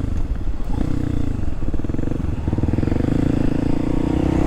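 Kawasaki KLX300SM's single-cylinder four-stroke engine under way. The revs drop sharply twice in the first couple of seconds, as with gear changes or easing off, then climb and hold steady.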